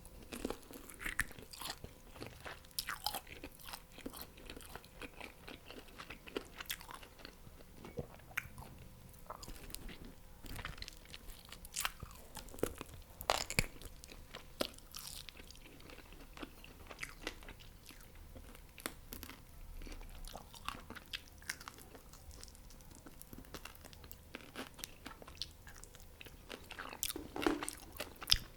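Close-miked eating of fried chicken wings and chaufa fried rice: irregular bites, crunches and chewing, with scattered sharp clicks.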